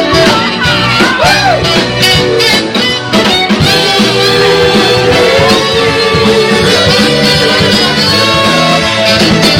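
Live band playing loudly: guitar and a vocal line over a steady beat, with brass joining in.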